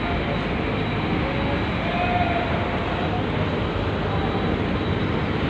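Steady engine noise of a ferry heard from inside the vessel, a constant drone that does not rise or fall.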